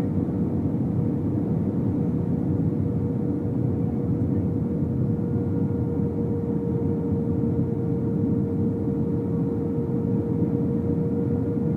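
Cabin noise inside a British Airways Airbus A319: a steady low rush of airflow and engine sound, with a steady hum running through it.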